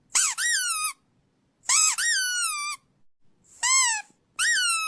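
A dog giving high-pitched whining calls on the "quiet speak" command, four of them, each rising then sliding down and lasting up to about a second.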